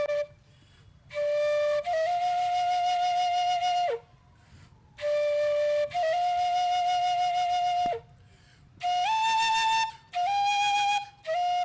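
Atenteben, a Ghanaian bamboo flute, playing the traditional funeral dirge heard in Ghana when someone dies. It plays long held notes in phrases of two to three seconds with short pauses between them, some phrases ending in a quick downward slide.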